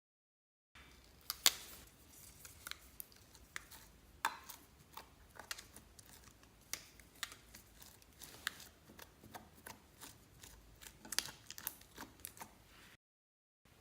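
Clear slime being mixed and pressed by hand, giving irregular sticky clicks and crackles, with short dead-silent gaps from edit cuts just after the start and near the end.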